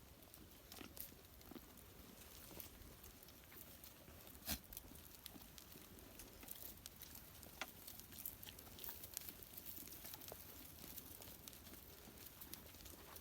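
Faint scattered clicks and rustles of a goat herd moving and grazing through forest undergrowth, with one sharper click about four and a half seconds in.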